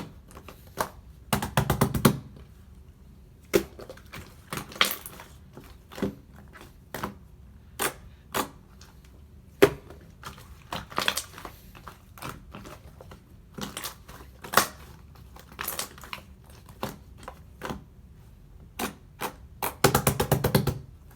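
Ice-cream-scoop-style slime being pressed and poked by hand, giving sharp clicks and crackling pops. Two dense runs of rapid crackles stand out, about two seconds in and near the end.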